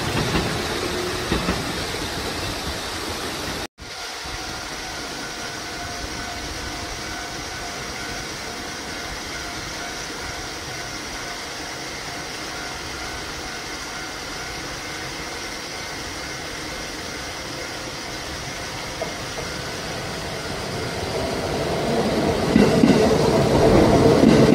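Kintetsu electric trains passing. One train's sound dies away over the first few seconds and cuts off abruptly. A lower, steady rail-side noise with a few faint steady tones follows, then another train approaches and grows loud over the last few seconds.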